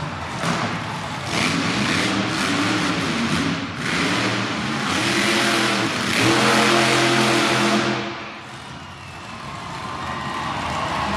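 Monster truck engine revving hard in repeated surges. It is loudest just before eight seconds in, drops away briefly, then builds again.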